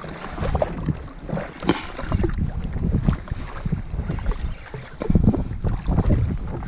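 Wind buffeting the microphone over water slapping irregularly against a jet ski's hull.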